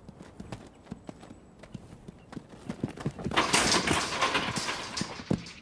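Hoofbeats of a young quarter horse moving on dirt, a run of irregular thuds. Past the middle a louder rushing noise rises over them for about two seconds, then fades.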